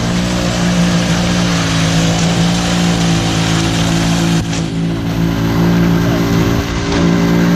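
A large engine of construction machinery running at a steady speed: a continuous low drone with a broad noisy rush over it, dipping briefly about four and a half seconds in.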